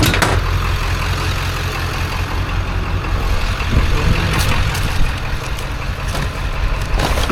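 A vehicle engine idling steadily with a low rumble, with a few sharp clinks of scrap being handled near the start and near the end.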